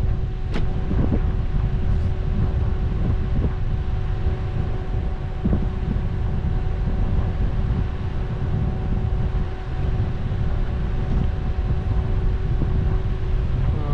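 A car driving off-road over a rough desert track: a steady low rumble from the engine and tyres, with wind noise on the microphone, a faint steady hum and a few small knocks.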